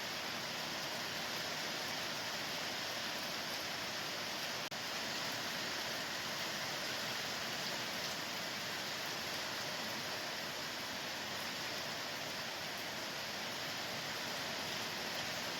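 A steady, even hiss of noise, unchanging throughout, with a brief dropout about five seconds in.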